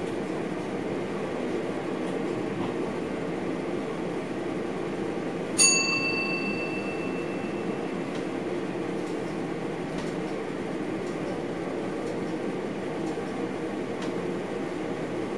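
Steady running noise inside a moving passenger train's driver's cab. About five and a half seconds in, a single bell-like chime sounds in the cab and rings out over about two seconds.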